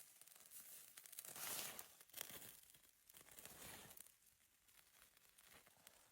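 Faint rustling and scraping that swells twice, with scattered small clicks.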